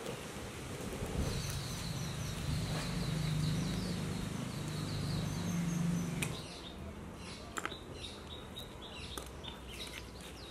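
Birds chirping and calling, with a low steady rush beneath them that drops away about six seconds in. A couple of faint clicks come in the second half.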